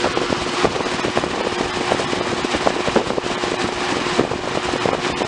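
Mid-1980s Edison Thin and Light box fan running on high from a cold start: a steady rush of air with a steady motor hum and irregular sharp clicks and crackles. The cold motor runs slower than normal.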